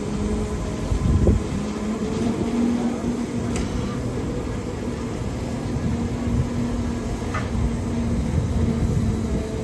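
Train running steadily with a low rumble and a steady hum, with a single thump about a second in.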